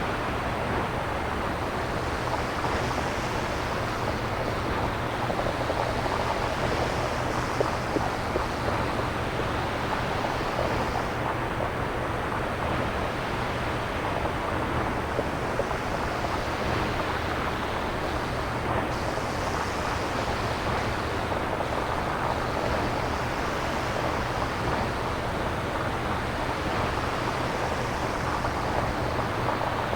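Synthesized nature-sound noise, made without samples: a steady wash like surf or wind, its hiss swelling and ebbing every few seconds.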